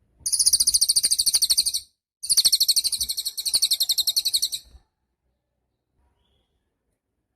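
Cililin songbird singing two rapid, high trills of fast repeated notes, the first about one and a half seconds long and the second about two and a half, with a short break between.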